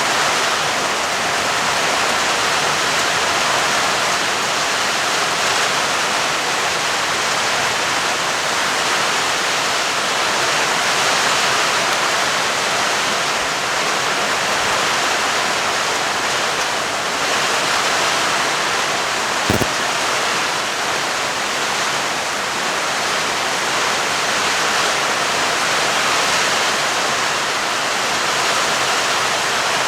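Steady heavy rain falling, an even hiss with no thunder in it, broken once by a brief click about two-thirds of the way through.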